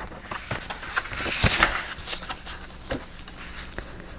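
Paper being handled: sheets rustling and sliding against each other, with a few light taps and clicks, loudest about a second and a half in.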